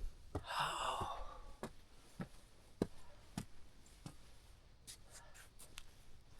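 A person's footsteps, about one step every 0.6 seconds, with a loud breathy exhale like a sigh near the start.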